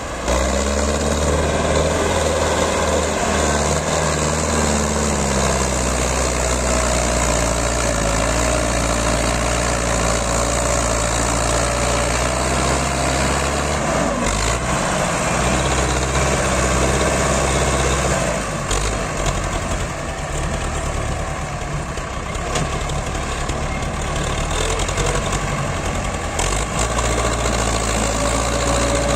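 Tractor's diesel engine running steadily while pulling a trolley loaded with mud, its note changing about halfway through.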